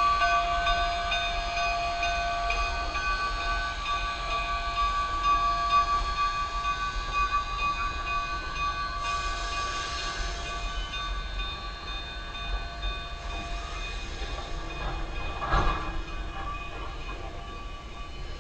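Cumbres & Toltec narrow-gauge passenger train rolling slowly into the station, with a steady high squeal from its running gear that fades as it slows. A brief hiss comes about nine seconds in, and a single knock near the end.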